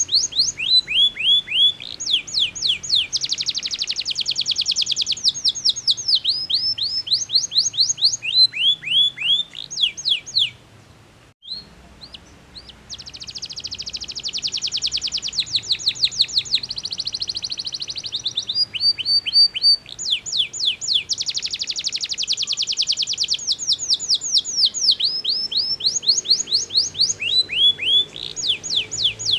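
Domestic canary singing loudly: long runs of rapidly repeated falling whistled notes alternating with fast rolling trills, changing to a new note type every second or two. The song breaks off for about a second roughly a third of the way through, then resumes.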